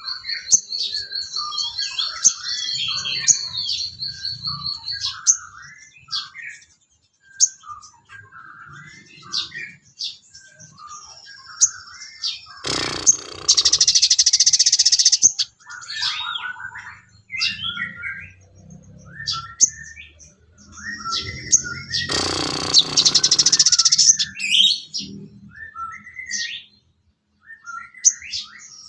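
Sogon (crimson sunbird) song used as masteran filler material: a fast, even, high trill for the first few seconds, then a run of short twittering chirps and trills. Twice, about halfway through and again later, a loud harsh buzzing burst lasts a couple of seconds.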